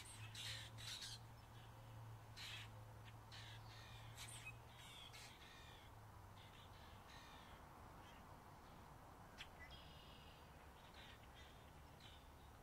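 Faint birds calling: a quick run of short, harsh calls in the first few seconds, then a few more later, over a low steady hum that fades out about halfway.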